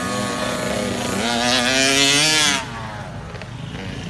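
Kids' motocross bike engine revving, the pitch climbing to its loudest just past halfway, then dropping away suddenly to a lower, quieter running sound.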